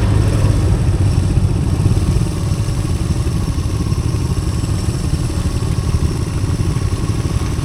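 Honda CT110 postie bike's small single-cylinder four-stroke engine running steadily under way, easing off slightly about two seconds in.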